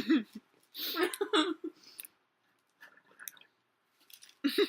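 Close-miked chewing and wet mouth sounds of someone eating, broken by short bursts of muffled laughter near the start, about a second in, and near the end.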